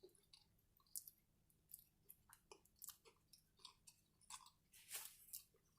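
Close-up chewing of food in the mouth: a string of irregular soft crackles and wet clicks, busier towards the end.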